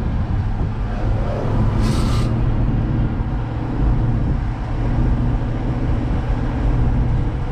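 Steady drone of a running vehicle engine, with a brief hiss about two seconds in.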